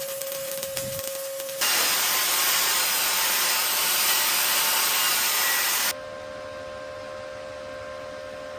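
Stick welding arc from a 1/8-inch E7018 rod at 120 amps, crackling and sizzling steadily while laying stack beads. It gets much louder and harsher about one and a half seconds in and drops back about six seconds in, and a steady high-pitched hum runs under the quieter parts.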